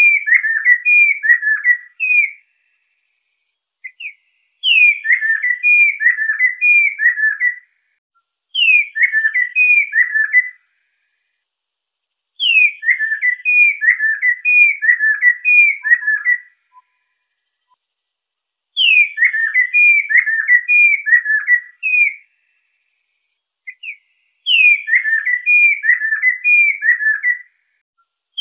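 Lesser necklaced laughingthrush singing: about six loud phrases of clear whistled notes, each opening with a high down-slurred note followed by a quick run of falling whistles, separated by short silent pauses.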